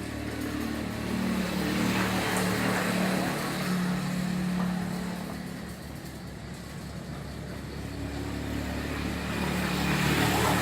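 A motor vehicle's engine hums, growing louder about a second in, fading around six seconds, and rising again near the end, as passing traffic does.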